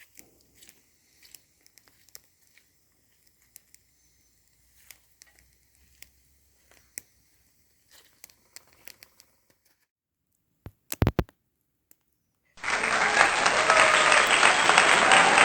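Faint crackling and rustling, with a few sharp clicks about eleven seconds in. Then a sudden loud burst of applause near the end.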